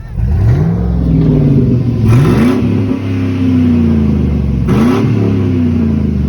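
Old Chevy mud truck's engine being revved three times, each throttle blip rising quickly in pitch and falling slowly back toward idle, with a rushing hiss at the top of the second and third revs.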